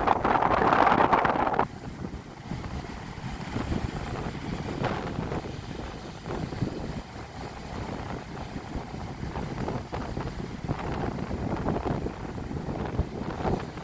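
Storm wind buffeting the microphone by a rough sea. A loud blast for the first second and a half stops abruptly, then gives way to quieter, gusty wind noise.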